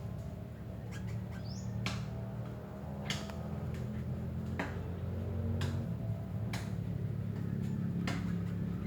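Birds giving short, sharp squawking calls every second or two, with one brief rising chirp, over a steady low hum.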